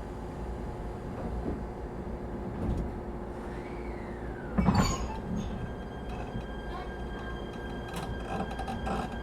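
Inside a standing ET127 series electric train, a steady hum with several constant tones from the onboard equipment. About halfway through, a sliding passenger door runs and bangs against its stop with a sharp thud, and a few lighter clicks follow near the end.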